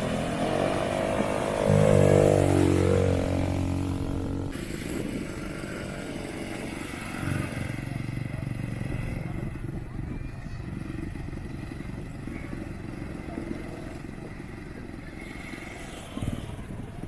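ATV engine revving hard, loudest about two seconds in with its pitch rising and falling, then running on more quietly and steadily as it moves away.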